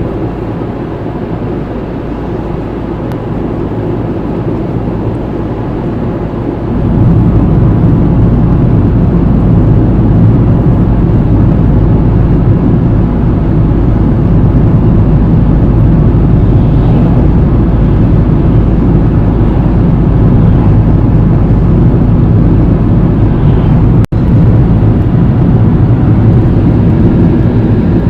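Steady low rumble of a car being driven, road and engine noise, growing louder about seven seconds in. It cuts out for an instant about 24 seconds in.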